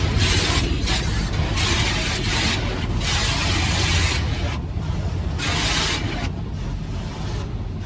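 Automatic car wash spraying the car, heard from inside the cabin: hissing jets hitting the body in uneven on-off bursts over a steady low rumble of the wash machinery, the hiss growing fainter after about six seconds.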